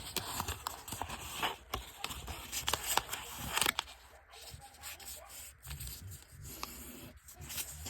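Square origami paper rustling and crackling as it is handled and folded into a water bomb base, with sharp crinkles in the first few seconds, then quieter rubbing as the folds are creased.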